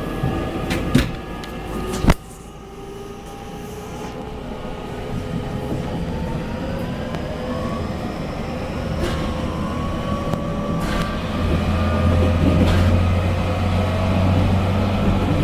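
Running sound inside the motor car of a JR Kyushu 813 series electric train. Two sharp knocks come in the first two seconds, then the level drops suddenly. After that the traction motor whine climbs steadily in pitch and the rumble grows louder as the train gathers speed.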